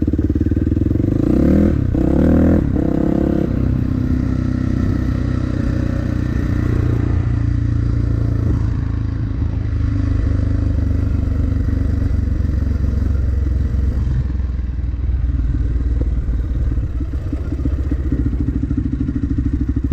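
Dirt bike engine running under way, revving up and down a couple of times about two seconds in, then running at a steadier pitch.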